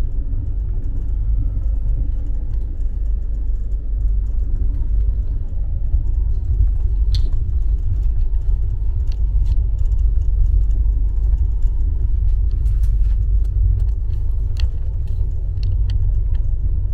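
Steady low rumble of a moving passenger train heard from inside an air-conditioned sleeper coach, with light clicks and rattles now and then.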